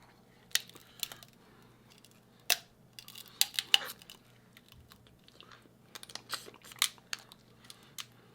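Close-up eating of shellfish: irregular sharp cracks and clicks of crab or lobster shell, mixed with chewing, the loudest cluster about three and a half seconds in.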